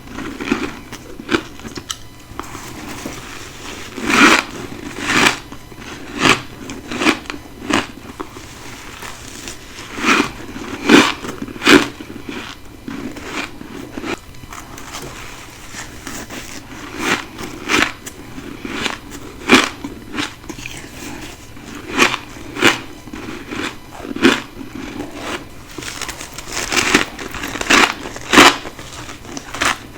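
A person biting into ice close to the microphone: sharp, irregular crunches, often two in quick succession, with quieter crackling of ice between bites.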